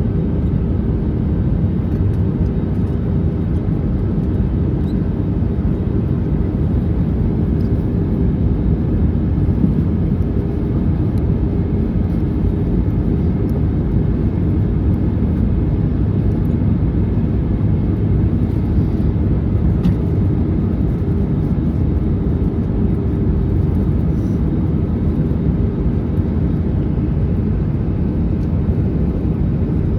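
Steady low cabin roar inside an Airbus A321neo airliner during its descent, airflow noise mixed with the hum of its Pratt & Whitney PW1100G turbofan engines.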